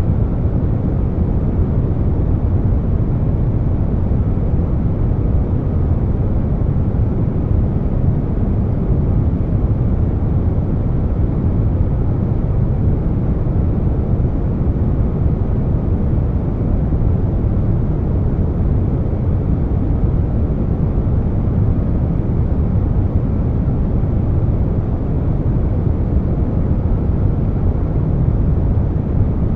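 Steady air conditioner noise blended with brown noise: an even, deep rush, heaviest in the low end, with no changes.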